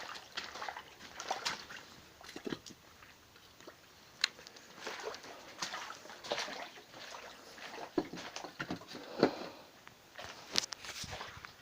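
Irregular light splashes and sloshes of shallow standing water on a flooded garage floor, a scatter of short soft splats.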